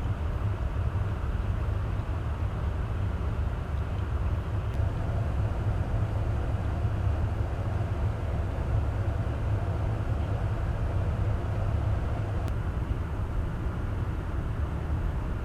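Steady low rumble of a KC-135 Stratotanker in flight: engine and airflow noise that holds even throughout.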